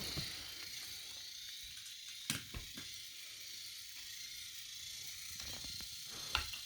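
Faint whir of small battery-powered motorized toy trains running slowly on wooden railway track, with a few sharp clicks, about three between two and three seconds in and another near the end.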